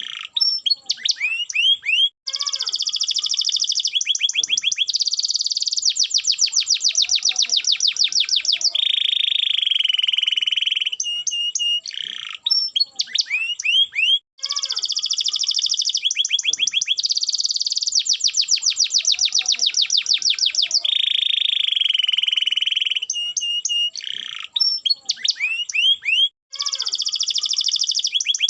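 Domestic canary singing a long, varied song of rapid trills, held whistled notes and buzzy rolls, the same phrase sequence repeating about every twelve seconds.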